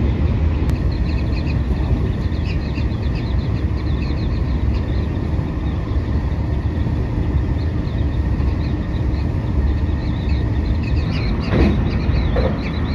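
Steady low rumble of a JR Hokkaido 731-series electric train running at speed, heard from inside the passenger car. Near the end a level-crossing warning bell starts sounding, ringing in a quick repeating pattern.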